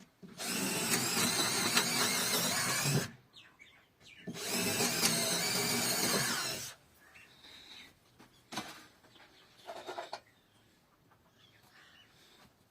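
A power tool runs in two bursts of about two and a half seconds each, with a short pause between them. A few light knocks follow.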